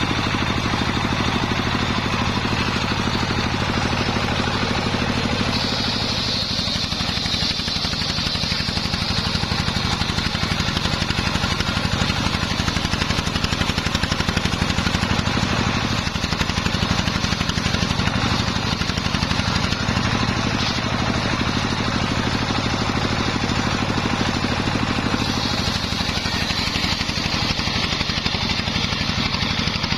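A homemade engine-driven circular sawmill runs steadily. The blade bites into waru wood about six seconds in, for a few seconds, and again near the end, adding a higher cutting whine over the engine.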